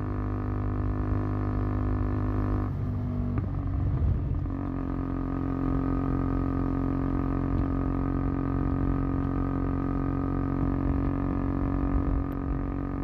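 KTM Duke 125's single-cylinder four-stroke engine and exhaust, running at steady revs. About three seconds in the note briefly breaks up for a second or so, then settles into a steady note again at a different pitch.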